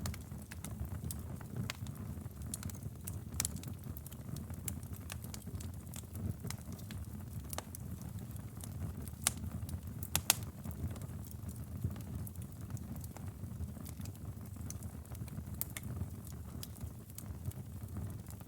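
Bonfire burning: a steady low rumble of flames with scattered sharp crackles and pops of burning wood. Two louder pops come about a second apart midway.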